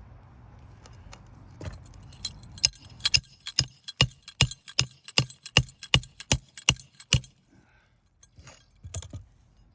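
A rapid run of about twenty sharp metal strikes on an asphalt shingle roof, two to three a second, from about two and a half seconds in to about seven, with a few lighter taps near the end. It sounds like hammering a shingle or its nails down flush.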